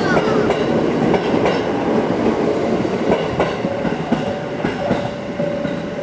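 Electric train running past on the rails, its wheels clattering over rail joints with irregular clicks and knocks; a steady tone from the running gear comes in about three and a half seconds in.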